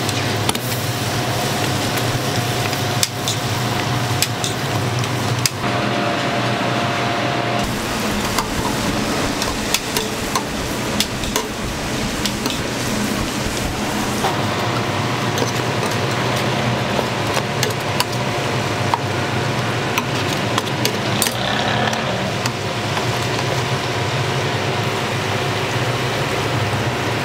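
Hotteok frying on an oiled griddle: a steady sizzle over a constant low hum, with scattered sharp clicks and taps of metal tools on the griddle.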